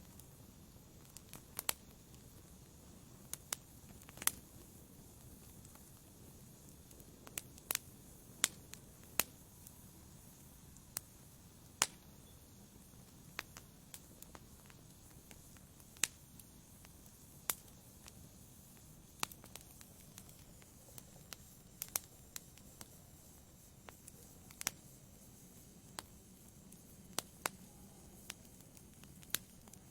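Wood fire burning in a fireplace: sharp crackles and pops at irregular intervals, about one a second, over a low steady hiss.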